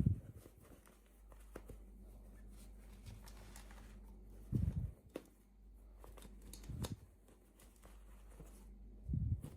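Hands unboxing small toys and packaging: light rustling and small clicks, with a few dull thumps spaced a couple of seconds apart.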